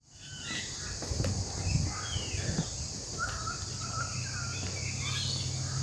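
Garden ambience: a steady high-pitched drone of insects, with scattered short bird chirps and calls over it and a low steady hum underneath.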